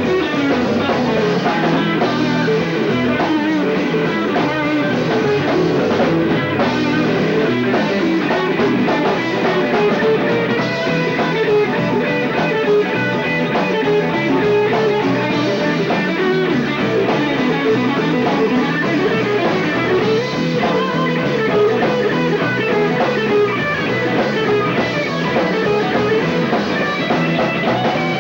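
Live rock band playing an instrumental jam: electric guitar lead over bass and drum kit, heard on a lo-fi audience cassette recording that cuts off the highs.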